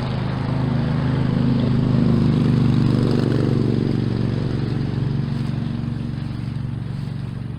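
A motor vehicle's engine runs with a steady hum, growing louder about two seconds in and easing off again toward the end, like a vehicle going by.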